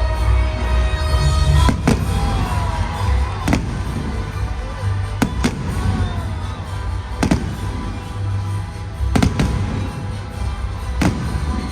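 Fireworks shells bursting in sharp bangs about every two seconds, over loud music with a heavy bass line.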